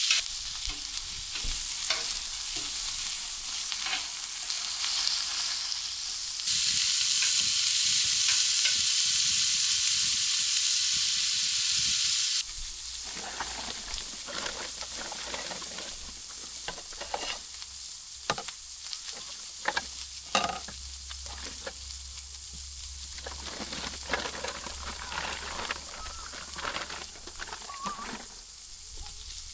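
Food sizzling in a pan over a steady hiss, with scattered clicks and scrapes of stirring. The sizzle jumps louder about six seconds in and drops off suddenly about halfway through, after which the stirring clicks stand out more.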